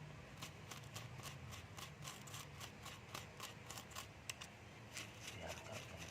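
Scraping and brushing the contacts of a car's distributor cap and rotor clean: quick, faint, scratchy strokes, about five a second.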